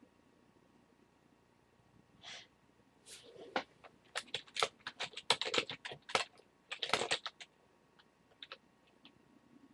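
Typing on a computer keyboard: a quick run of key clicks for a few seconds, then a few scattered taps near the end.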